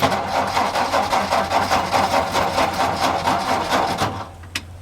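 1962 Ford F-350 truck engine catching suddenly and running rough and fast for about four seconds before dying away. It is starving for fuel: the fuel pump should be pulling fuel by now, and the owner suspects a fuel pump issue.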